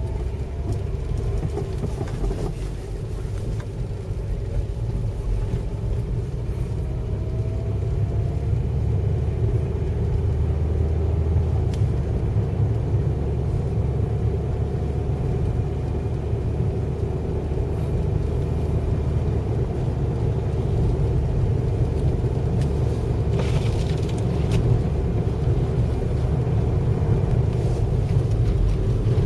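Gale-force wind buffeting the microphone: a continuous, uneven low rumble with faint drifting whistling tones above it.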